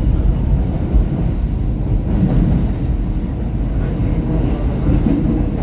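Interior of a SEPTA Market-Frankford Line Kawasaki M-4 subway car running between stations: a steady low rumble of wheels on rails and car noise.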